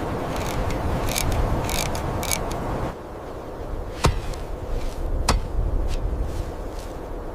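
Steady low wind rumble with several short hissing swishes in the first half, then a sudden drop in level and two sharp cracks about a second apart.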